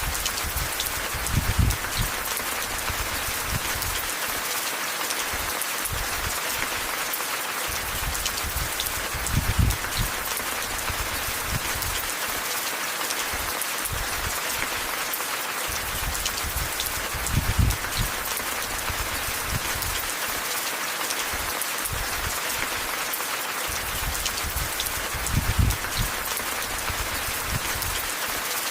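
Steady rain, a dense even hiss of drops, with a low rumble that swells briefly about every eight seconds.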